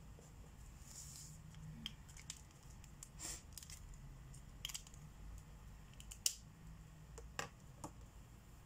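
Markers being handled while colouring: a scattering of quiet clicks and taps, with a few short scratchy strokes. The sharpest click comes about six seconds in.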